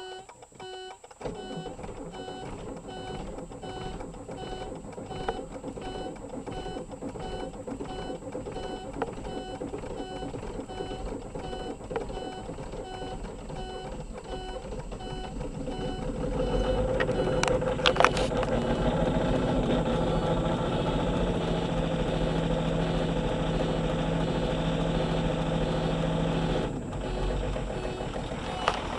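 A car's warning chime beeps over and over at about two beeps a second. About 16 seconds in, a diesel engine starts and keeps running in the deep cold: a cold start.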